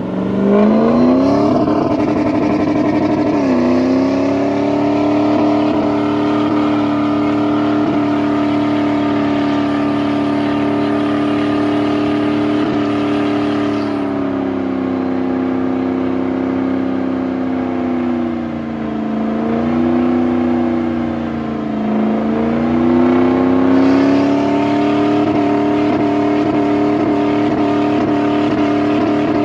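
A truck engine held at high revs for a long stretch, as in a burnout. Its pitch climbs over the first few seconds, holds steady, dips twice in the second half and then rises again.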